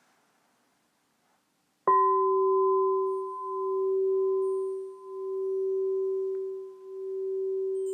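Alchemy crystal singing bowl struck once about two seconds in, then ringing on with one strong low tone and a fainter higher one, swelling and fading in a slow wobble every second and a half or so.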